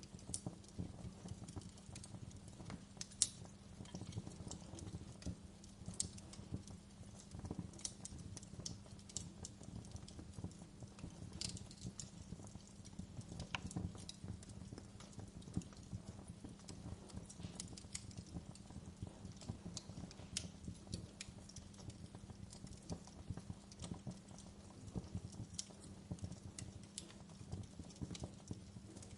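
Wood fire crackling in a fireplace: many irregular sharp pops and snaps over a low steady rumble, with one louder pop about three seconds in.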